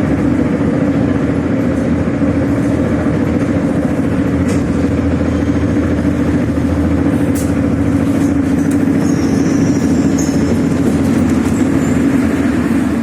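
81-717.5M "Nomernoy" metro train running at steady speed between stations: a steady, loud rumble of wheels on rails with the hum of the traction motors.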